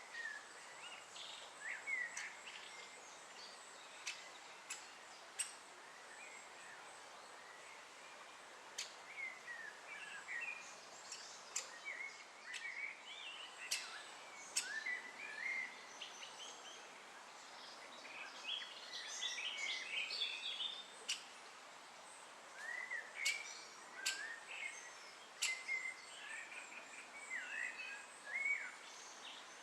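Birds calling outdoors: a scatter of short, quick chirps, with sharp clicks now and then and a busier run of calls about two-thirds of the way through.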